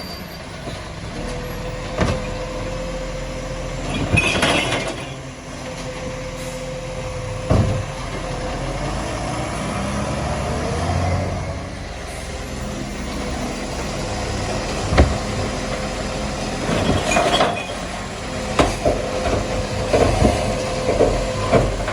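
Garbage truck running, with a steady whine and a series of sharp metallic clanks and bangs, more of them close together near the end.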